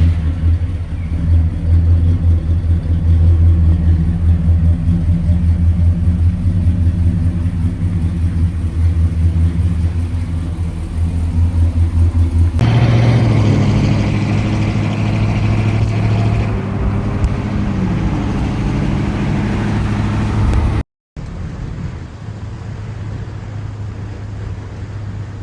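1956 Chevrolet Bel Air engine idling just after a cold start, a steady low running sound. About halfway through the sound shifts and takes on more high-pitched content. After a brief dropout near three-quarters of the way in, it carries on quieter.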